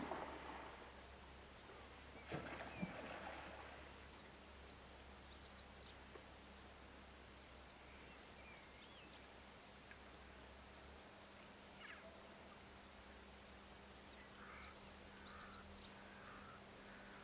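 Faint outdoor ambience with wild birds calling. There are two spells of short high chirping and a few harsher, lower calls, the loudest about two and a half seconds in, over a faint steady low hum.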